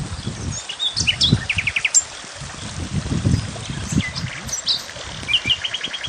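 Songbirds singing in short bursts of high chirps and quick trills, about a second and a half in and again near the end. Underneath runs an irregular low rumbling.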